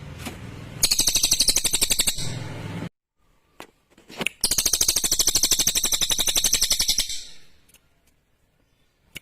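Cililin songbird giving two loud, fast rattling trills, each two to three seconds long, separated by a short quiet gap with a few single chips.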